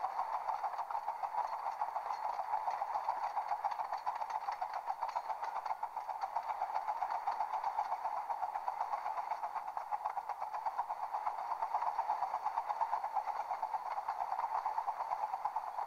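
Train running, a steady noise with a fast, even flutter that keeps up without a break.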